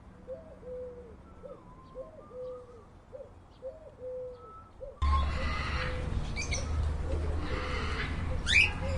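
Pigeon cooing: soft, low coos repeated about once a second. About five seconds in, it cuts to a louder recording of sharp bird chirps over a steady low rumble.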